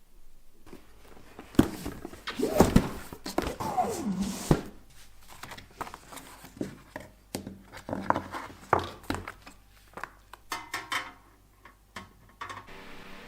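A series of knocks and thuds from objects being handled, busiest in the first few seconds, with a short falling squeak about four seconds in.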